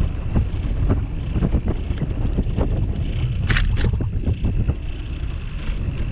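Wind rumbling on the microphone of a bike-mounted camera while cycling, with frequent small knocks and rattles from the bicycle and camera mount over the path. A brief sharper noise comes about three and a half seconds in.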